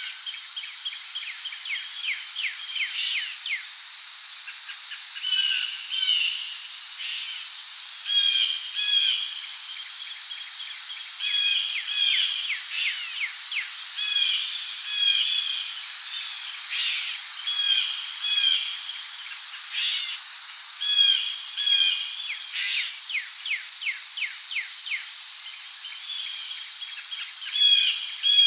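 Rainforest ambience: insects droning steadily at one high pitch, with birds calling over it in short paired chirps that repeat every second or two, and a few quick runs of rapid notes near the start and near the end.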